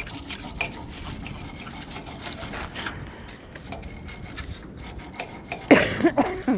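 Rubbing and scraping noise, with a louder burst near the end.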